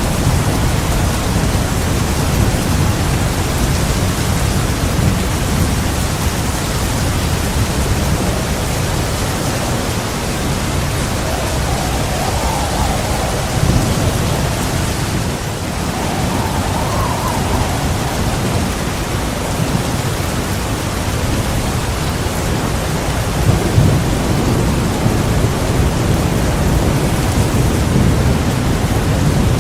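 Heavy rain falling steadily with low rumbling thunder underneath, as a dense, even hiss with a deep rumble that swells now and then.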